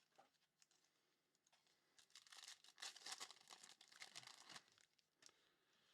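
Faint crinkling and tearing of a trading-card pack wrapper being ripped open, the busiest stretch in the middle.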